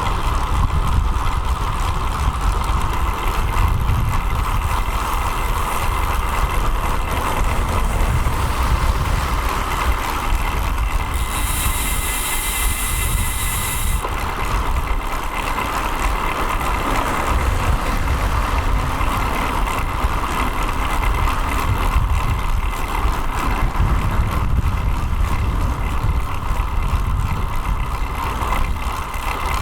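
Wind rumble and road noise on a road-bike-mounted action camera while riding in traffic. A sharp hiss is heard about 11 seconds in and lasts about three seconds.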